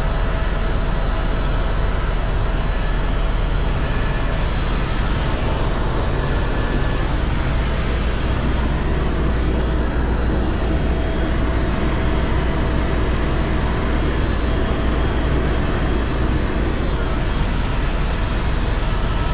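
Helicopter cabin noise in steady flight: a loud, unchanging drone of rotor and engine, heaviest in the low end, with a few faint steady tones over it.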